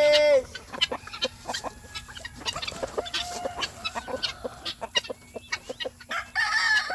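A flock of chickens clucking, with many short scattered calls and chirps. A loud drawn-out call cuts off about half a second in.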